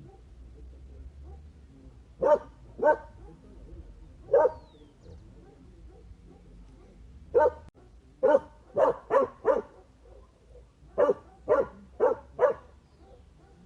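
A dog barking in short single barks and quick runs: two barks, a lone bark, then a burst of five and a burst of four, with pauses between.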